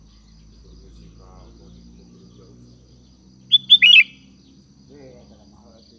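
Sooty-headed bulbul (kutilang) calling: a single quick burst of three or four loud, chirped notes about three and a half seconds in.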